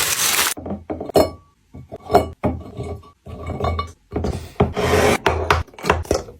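Food containers and packages handled and set down while a fridge is restocked: a scraping rub that stops about half a second in, then a series of light knocks and clinks, and another stretch of scraping around the middle.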